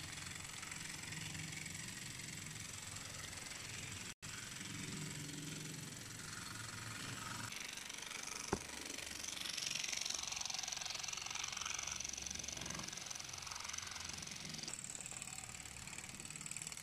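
HO-gauge live steam locomotive running: a steady hiss with a light mechanical rattle, the hiss growing stronger about halfway through, and one sharp click a little past halfway. The sound breaks off for an instant about four seconds in.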